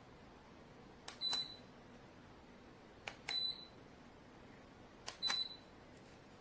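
Ceiling fan's remote control pressed three times, about two seconds apart: each press is a small click answered by a short, high beep from the fan's receiver as the fan speed is stepped down.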